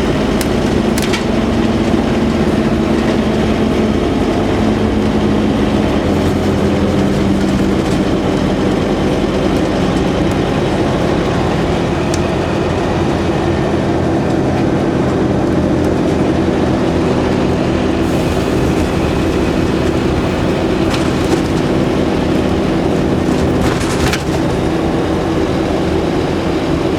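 Scania N230UD OmniCity double-decker bus engine running steadily under way, with a few short clicks and rattles now and then.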